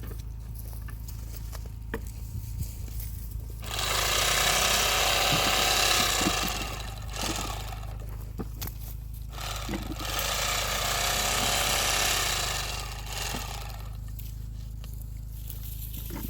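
A motor running steadily with a low hum, with two louder spells of harsh, rasping noise lasting about three seconds each, one a few seconds in and one in the second half.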